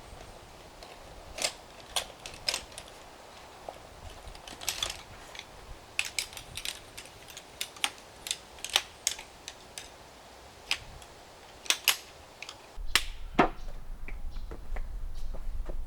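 Irregular sharp clicks and snaps, one or two at a time with gaps between. About thirteen seconds in, a low steady hum starts, and the loudest snap comes just after.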